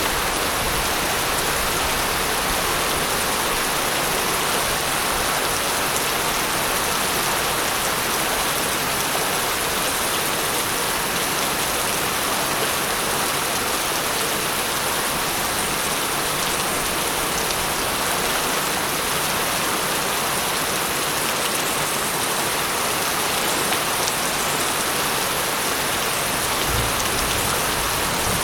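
Steady, constant rain falling on surfaces, an even hiss with no break or change.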